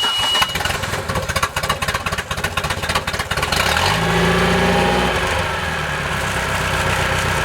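MerCruiser 3.0 four-cylinder sterndrive engine being started: the warning buzzer beeps steadily and stops about half a second in, the engine cranks for about three seconds, then catches, rises briefly and settles into a steady idle for flushing.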